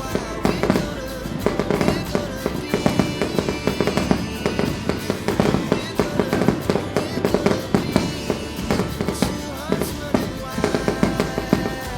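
Fireworks going off in quick succession: a dense, irregular stream of sharp bangs and crackles, several a second, with music playing underneath.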